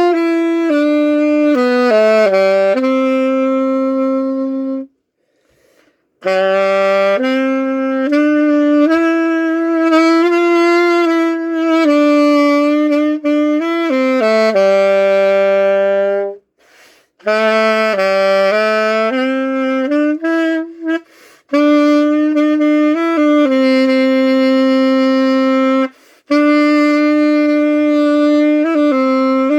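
An Armstrong saxophone playing a slow solo melody in long held phrases, with brief pauses for breath between them, as a test of the instrument after a dent repair.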